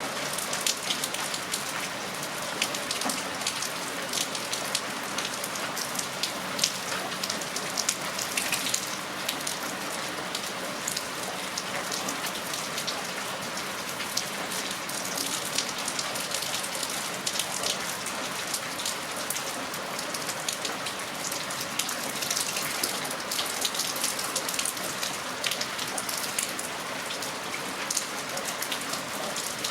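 Steady rain falling, with many individual drops landing in sharp ticks over a continuous hiss.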